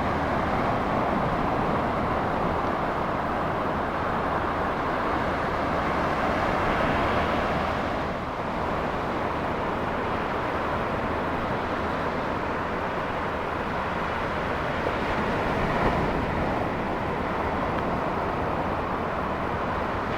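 Ocean surf washing in a steady rush of noise, swelling slightly twice.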